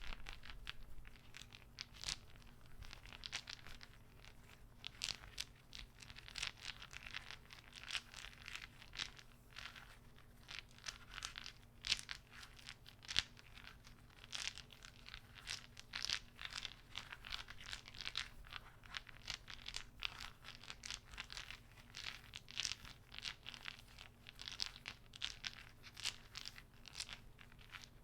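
Many soft, irregular clicks and crinkles, several a second, from a small object handled close to the microphone as an ASMR trigger.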